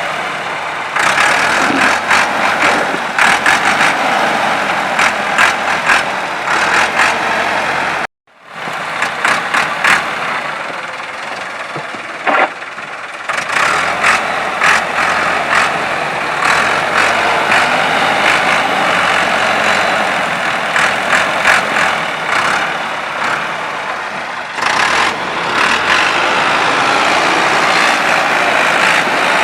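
Floodwater rushing in a steady loud roar, with many short sharp knocks through it; the sound drops out briefly about eight seconds in, then resumes.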